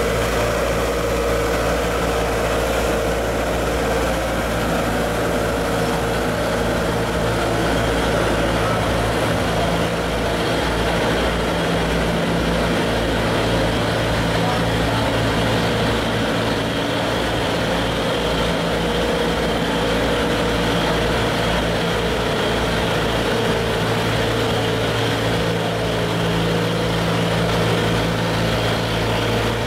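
Passenger train cars rolling slowly past, with a steady low engine drone and an even rumble.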